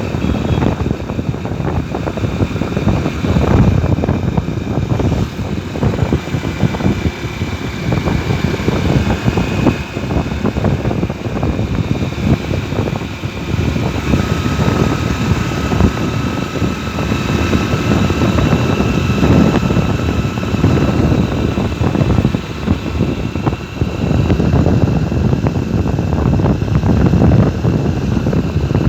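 Motorcycle running steadily on the move, with wind rumbling on the microphone.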